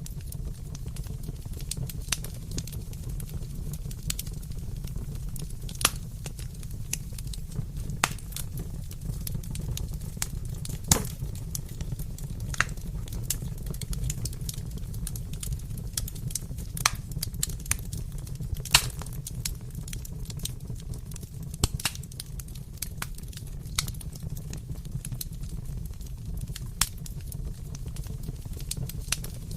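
Wood fire crackling and popping: irregular sharp snaps over a steady low rumble of the flames.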